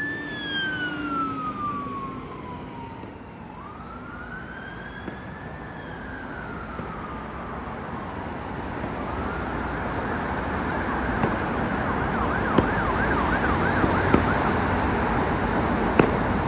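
Emergency vehicle siren on a slow wail, falling, rising and falling again, which switches about nine seconds in to a fast yelp and fades, over steady traffic noise. A few short sharp pops sound near the end.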